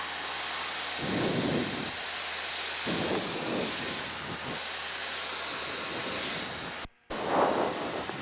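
Cabin noise of a Cessna Cardinal 177 in flight: the single piston engine and propeller running steadily with airflow rush, heard from inside the cabin. The noise swells a few times and cuts out for a moment about seven seconds in.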